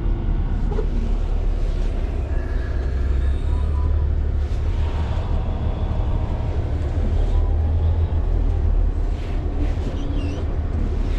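Natural-gas (CNG) semi truck's engine running with a steady low rumble while the truck waits or creeps at the fuel station.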